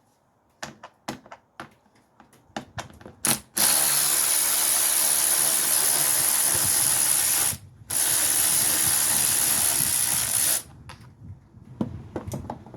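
Scattered clicks and clatter of hand tools on metal, then a pneumatic air ratchet runs in two long bursts with a steady hiss of air, a short pause between them.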